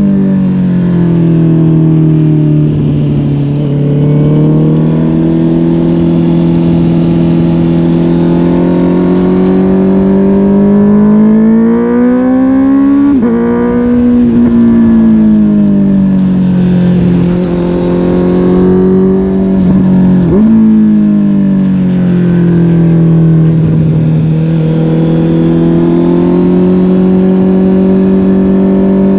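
Honda CB650R inline-four engine through a MIVV GP PRO Carbon aftermarket exhaust, pulling under way with the note rising and falling with the throttle. The pitch climbs slowly and then breaks sharply about thirteen seconds in, with a second quick break about twenty seconds in.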